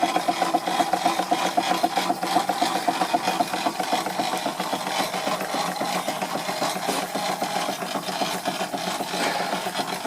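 Stuart Victorian live-steam model mill engine running steadily, a fast, even mechanical beat with clatter from the belt-driven toy fairground model it powers.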